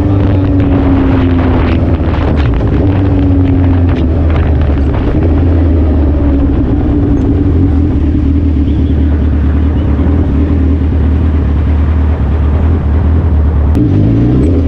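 Suzuki Hayabusa's inline-four engine and exhaust running under way, with wind noise on the microphone. The engine note eases down slightly over the first few seconds, holds steady, then rises as the bike accelerates near the end.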